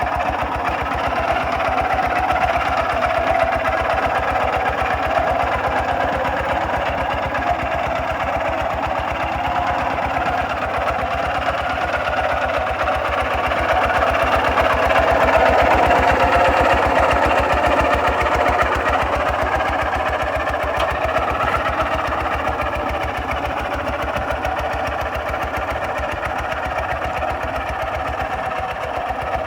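Kubota RT 140 DI walking tractor's single-cylinder diesel engine running steadily with a rapid, even chugging beat, growing a little louder about halfway through before easing back.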